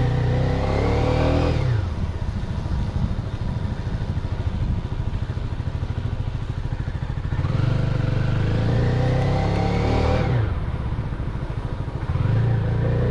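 CFMoto 250NK single-cylinder engine through its stock exhaust, heard while riding: the revs climb under throttle, drop sharply as the throttle closes or a gear changes, run steadier, then climb and drop again twice. The bike is new and still being run in.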